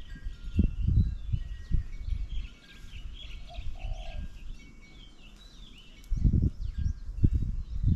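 Several wild birds chirping and calling at once over an irregular low rumble that comes and goes, loudest at the start and again near the end.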